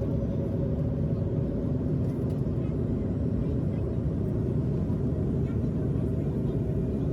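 Steady cabin noise of an airliner in flight: a constant low rumble of engines and airflow, with a faint steady hum.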